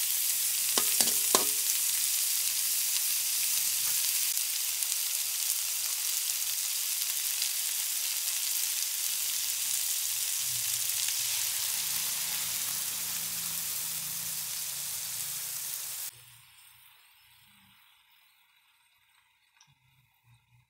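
Chicken feet sizzling as they fry in a hot wok, with a metal spatula clinking against the pan a few times about a second in. The sizzle cuts off suddenly about three-quarters of the way through, leaving only a few faint ticks near the end.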